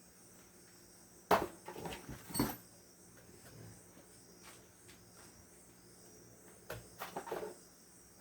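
Crickets chirring steadily, with two short spells of knocking and rustling.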